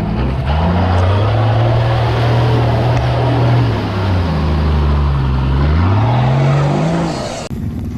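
A vehicle engine revving under load with a rushing noise over it. Its pitch climbs, holds, dips and climbs again, then the sound cuts off suddenly near the end.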